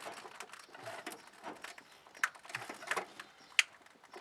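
Scattered small clicks and knocks of hands working a car's fuel filter and its pipe connection, with a sharp click a little past three and a half seconds in.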